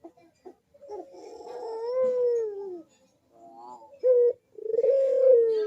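Barbary dove (puter) cooing its 'kuk-geruk' call: a long drawn-out coo that swells and falls in pitch, a couple of short notes, then a second long falling coo near the end.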